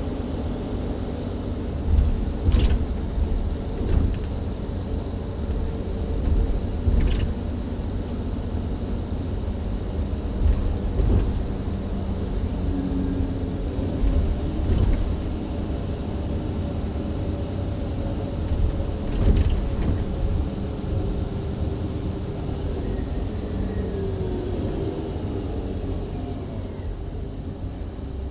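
Mercedes-Benz Citaro C2 LE hybrid bus heard from inside the cabin while driving in town: a steady engine and road rumble, broken by several sharp rattles or knocks spread through the stretch. The rumble eases slightly near the end.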